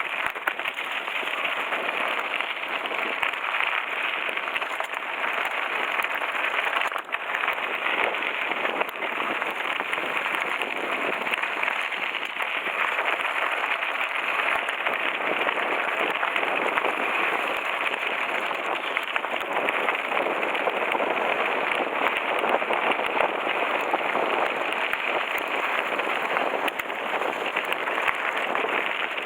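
Mountain bike coasting downhill on a gravel forest road: a steady crunching rattle of tyres on loose gravel and of the bike shaking over it, with a brief dip about seven seconds in.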